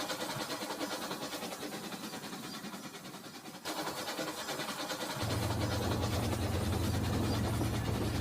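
Battery-powered Rail King toy train running on its plastic track, with a fast, fine rattle of its motor and wheels that fades, then changes abruptly about three and a half seconds in. A steady low hum starts about five seconds in.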